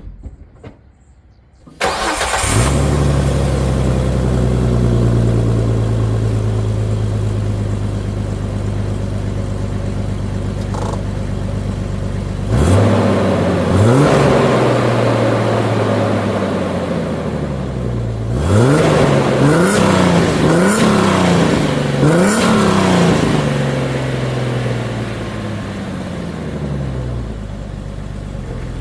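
Jeep Wrangler TJ engine starting after a few clicks, running through a newly fitted stainless header and aFe dual catalytic exhaust. It holds a steady fast idle and is revved twice, then four times in quick succession, before the idle settles lower near the end.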